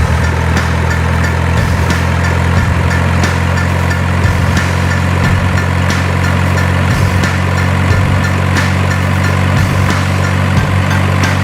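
Dump truck engine idling steadily, a constant low running sound with faint clicks.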